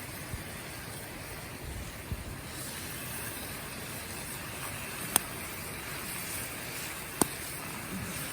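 Wood fire burning with a steady hiss, and two sharp crackling pops about two seconds apart past the middle.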